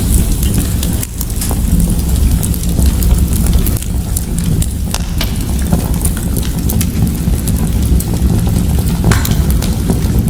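Wood fire crackling in a fireplace: a steady low rumble under frequent, irregular sharp pops and crackles.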